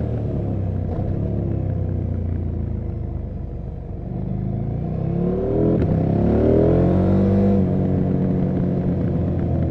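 KTM 790 Adventure R's parallel-twin engine and exhaust under way. The engine note falls over the first few seconds as the bike slows, then rises as it accelerates hard about five seconds in, and drops abruptly with a shift up near the end.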